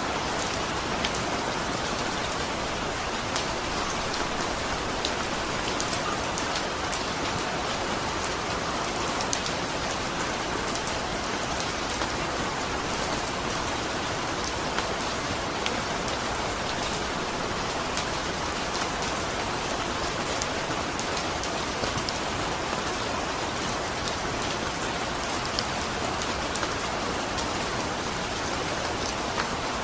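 Steady rain with individual drops ticking sharply throughout.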